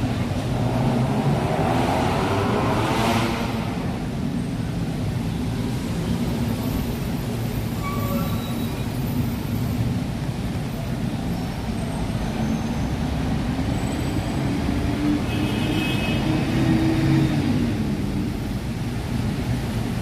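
Steady low ambient rumble of a busy public space, with faint voices about one to three seconds in.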